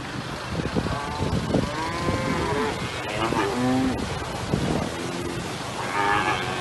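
Cattle mooing and bellowing, several calls one after another with overlapping voices, over a steady rush of floodwater.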